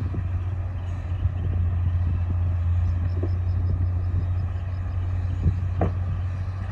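Diesel engine of a D60 crawler bulldozer running with a steady low drone. A few brief knocks come near the end.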